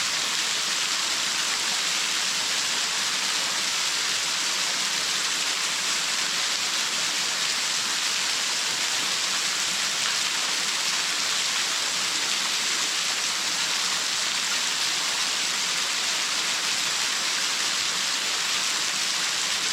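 Waterfall splashing steadily, an unbroken hiss of falling water with little low rumble.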